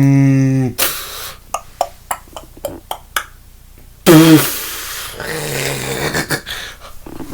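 A person making sound effects with the mouth: a steady held hum that cuts off just under a second in, then a scatter of small clicks and knocks. About four seconds in comes a loud short vocal burst, followed by breathy panting noise.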